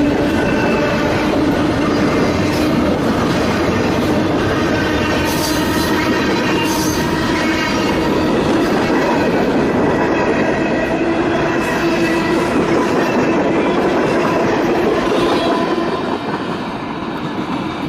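Train rolling past close by, its cars clacking over the rail joints in a steady loud rumble with some wheel squeal; the sound eases a little near the end.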